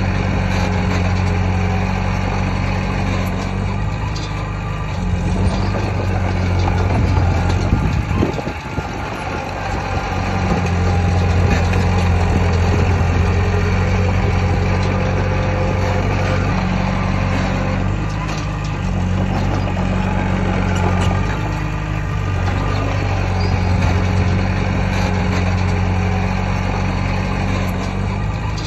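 Heavy diesel earthmoving machinery running steadily, with a deep engine note that drops briefly about eight seconds in and then comes back up.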